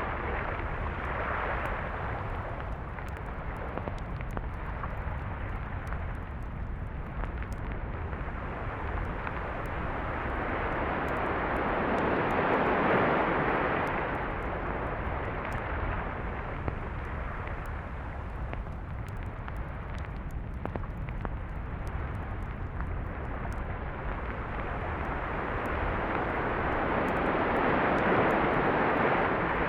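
Sea waves washing onto a beach. The surf swells twice, about fifteen seconds apart, over a steady low rumble.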